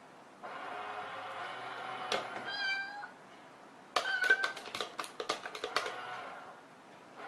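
A cat meowing: a short call about two and a half seconds in and a briefer one about four seconds in, with a quick run of clicks and knocks right after.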